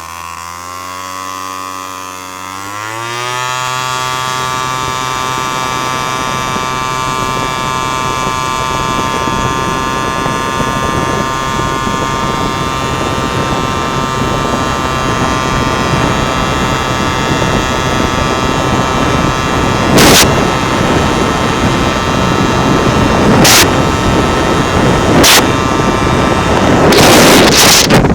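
Two-stroke 50cc engine of a Peugeot Speedfight 2 scooter pulled at full throttle: low revs at first, then rising steeply about two seconds in and holding a steady high pitch while speed builds, as the scooter's automatic belt drive keeps the revs up. Wind rush grows louder, with a few sharp bangs in the last third.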